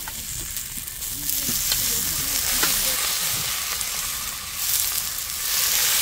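Vegetable slices frying in oil on a hot round griddle pan over a camping gas burner, a steady sizzle. Partway through, red-marinated meat is emptied onto the pan and the sizzling grows louder, with the odd click of tongs and ladle on the pan.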